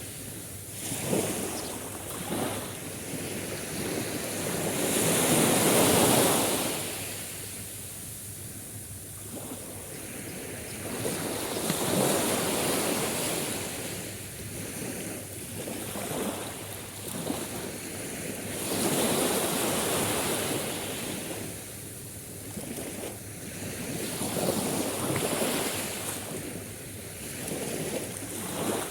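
Sea waves washing ashore, the surf swelling and falling back every few seconds, with wind blowing across the microphone.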